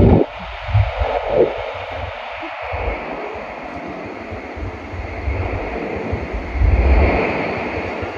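Running noise of an N700S Shinkansen train heard from inside the passenger cabin at speed: a steady low rumble with a rushing hiss over it. It swells louder right at the start and again about seven seconds in.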